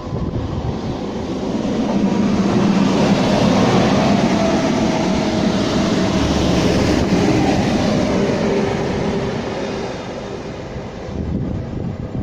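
A train passing through on the main line. The rumble and rush of wheels on rail build over the first two seconds, hold steady, and ease off near the end.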